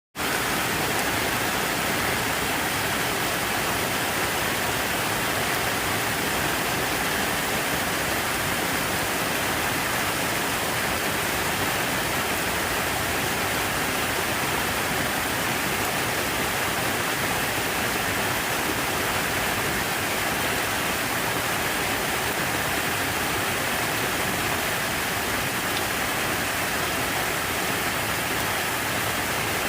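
Steady rush of falling water, an even hiss without any break or change.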